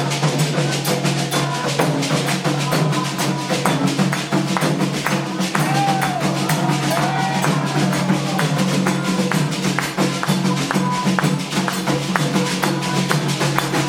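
Candomblé ritual percussion: atabaque hand drums and rattling percussion played in a fast, dense, unbroken rhythm.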